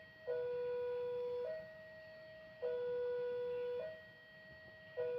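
Electronic two-tone warning alarm: a louder low tone and a quieter higher tone alternate, each held for about a second and a quarter, over and over.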